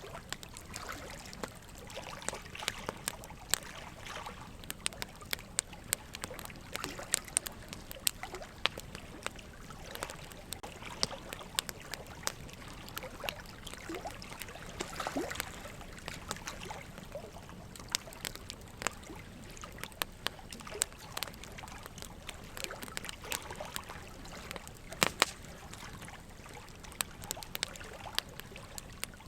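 Wood fire crackling in a fire pit: steady hiss with frequent irregular sharp pops and snaps, the loudest pop a little over three quarters of the way through.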